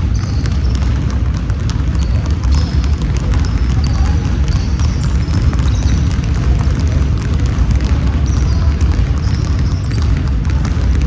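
Basketball game sounds on an indoor court: a ball bouncing and dribbling, with short high sneaker squeaks scattered throughout, over a constant low rumble.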